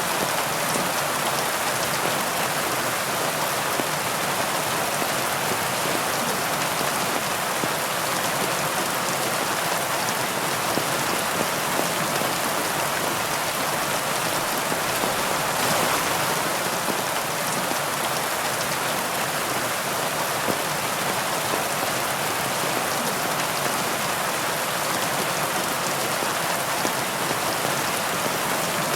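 Heavy rain falling steadily: an even hiss, with scattered single drops ticking through it.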